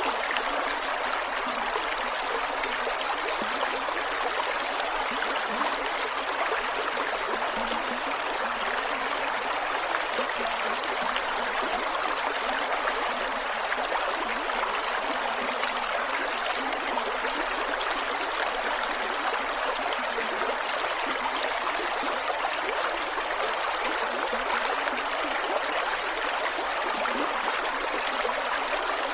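Creek water flowing over rocks, a steady rush with small gurgles and trickles.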